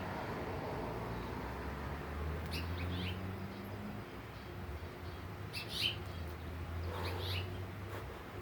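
Finches calling: short high chirps in three brief clusters, over a low steady background hum.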